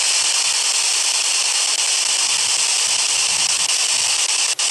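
Steady radio static hissing from a ghost-hunting spirit box, with a sharp momentary cut near the end as it sweeps to the next channel.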